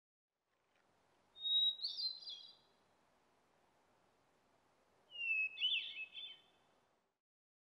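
A songbird singing two short phrases about three and a half seconds apart. Each phrase opens with a clear whistled note and breaks into a quick run of twittering notes, over a faint outdoor hiss that cuts off abruptly near the end.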